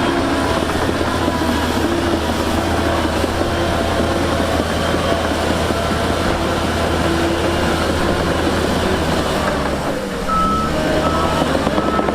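Heavy diesel earthmoving machinery running steadily, with a reversing alarm beeping. About ten seconds in the sound dips briefly, then a higher-pitched beep repeats evenly, about once a second.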